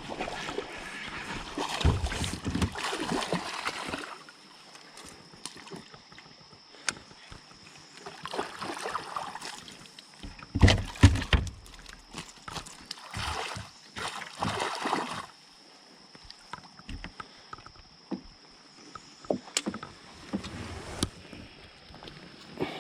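Water splashing and knocks against a kayak while a hooked bass is fought beside it. The sound comes in irregular bursts with quieter stretches between, loudest about ten to eleven seconds in.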